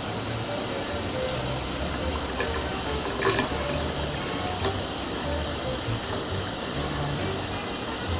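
Steady rush of running water, with faint background music underneath.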